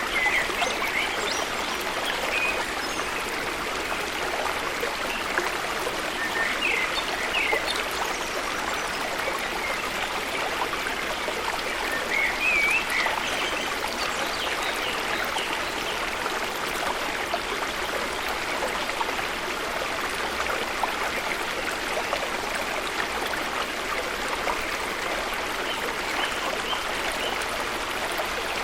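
Steady rush of flowing water from a waterfall stream, with a few short bird chirps over it in the first half.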